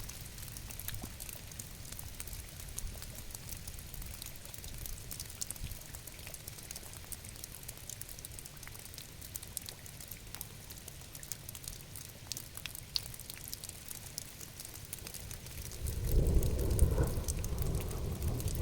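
Steady rain falling, with many small drops ticking on a surface. Near the end a low rumble of thunder rises and keeps going, louder than the rain.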